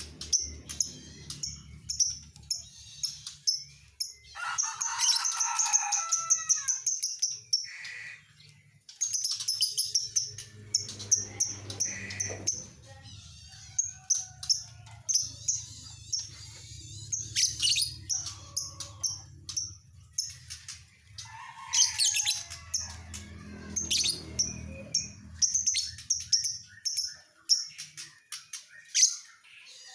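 Lovebird singing: rapid, high-pitched chirps and short trills in bursts, with brief pauses between them.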